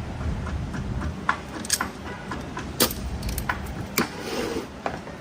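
Sharp metallic clinks and knocks, about half a dozen spread out, as a clutch drum is handled and set into an automatic transmission case during reassembly.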